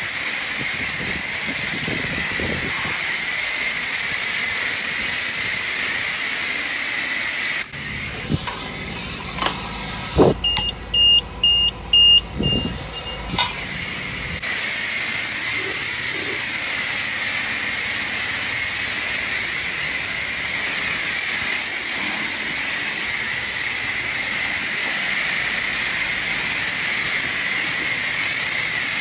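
High-pressure wand at a self-serve car wash spraying water in a steady hiss. It stops for several seconds partway through, while a run of short electronic beeps sounds, and then starts again.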